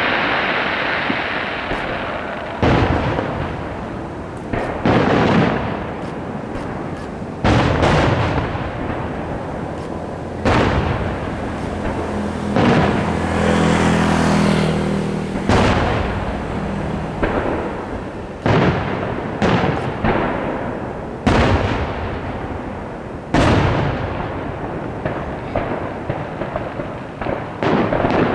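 Aerial fireworks shells bursting one after another, each a sharp bang followed by a long rumbling echo. There are about a dozen through the stretch, some coming in quick pairs.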